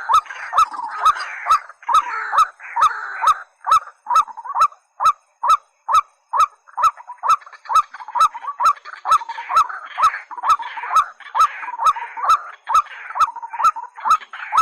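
Rails calling: short rising notes repeated about two to three times a second, with sharp regular clicks throughout.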